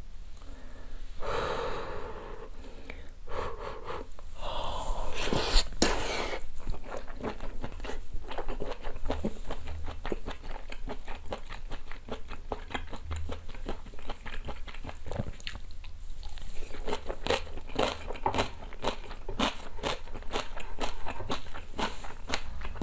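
Close-miked eating sounds: seaweed and beef tendon from hot seaweed soup, then kimchi, chewed with a dense run of small, quick, wet clicks, after a noisy first mouthful about a second in.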